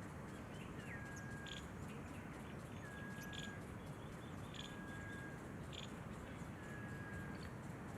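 A bird calling over and over: a level whistled note about every two seconds, with short higher chirps between them, over a steady background hiss.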